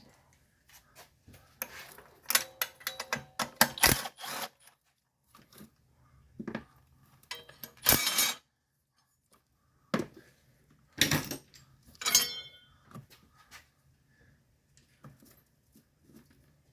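Metal hand tools clicking and clinking on the engine in short clusters as the 10 mm bracket bolt is worked loose.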